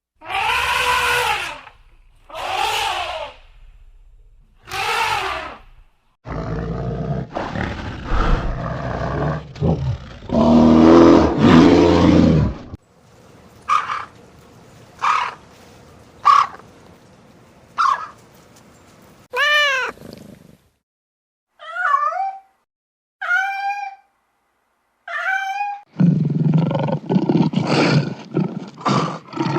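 A run of different animal calls cut one after another: three loud pitched calls, a stretch of low rumbling, a few sharp clicks, a single rising-and-falling cry, three quick chirping calls, and a low growling stretch near the end.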